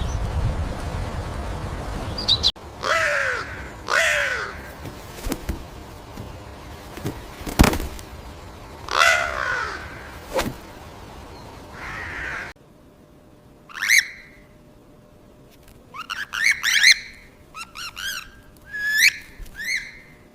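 Repeated harsh bird calls across separate recordings cut together: a few spaced calls at first, then a quicker run of calls near the end over quieter background.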